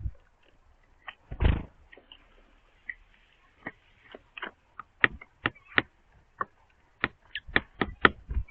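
Small birds pecking at food on a wooden bird feeder: a run of sharp, irregular taps that come quicker in the second half, with one dull thump about a second and a half in.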